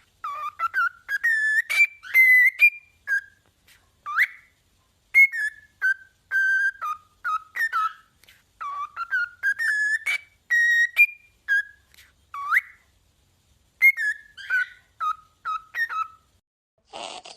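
A parrot whistling: a long run of short, clear whistled notes, many sliding up or down in pitch, with brief gaps between them.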